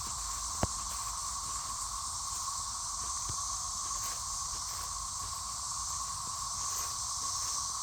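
Dense chorus of periodical cicadas: a steady drone holding one pitch, with a hiss above it. A single sharp click cuts through just under a second in.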